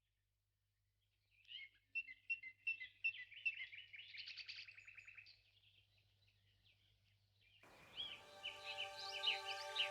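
Songbird singing, a quick run of chirps and trills. About seven and a half seconds in, soft music with held tones comes in beneath more chirping.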